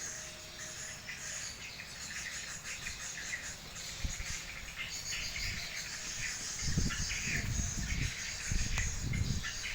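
High, dense twittering of swiftlets. From about seven seconds in, strong wind buffets the microphone with a low rumble.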